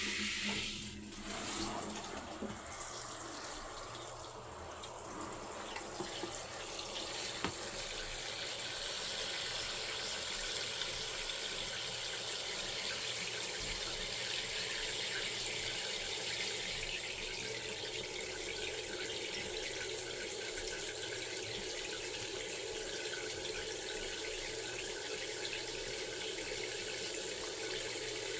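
Water running steadily from a tap and splashing into a basin or tub, with a single sharp click about seven seconds in.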